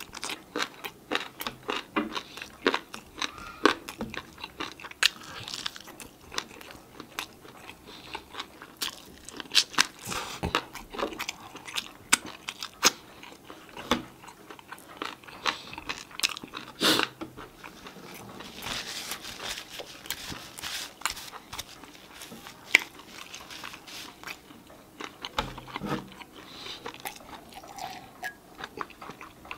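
Close-miked chewing and crunching of chicken wings: many sharp crunches and wet mouth clicks, thinning out in the last third.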